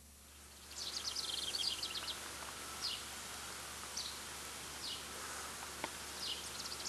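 Outdoor ambience with birds chirping over a steady low background hiss: a quick run of chirps about a second in, then single chirps every second or so.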